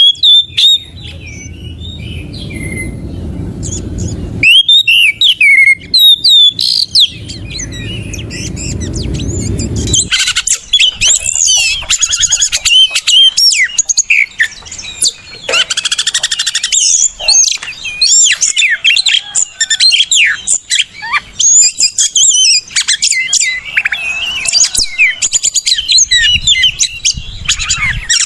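Oriental magpie-robin (kacer) singing a fast, varied song of whistled notes, chirps and rapid trills. The song is sparse at first, with a low rumbling noise under it in two stretches, and becomes a dense, continuous run from about ten seconds in.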